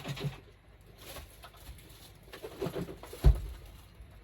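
Dove cooing in short low phrases, with a single dull thump a little after three seconds in.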